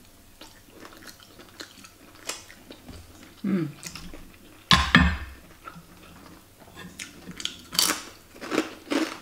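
Eating sounds: a person chewing a mouthful of food, with short clicks of a metal spoon and fork against a terracotta plate. A louder knock comes about five seconds in.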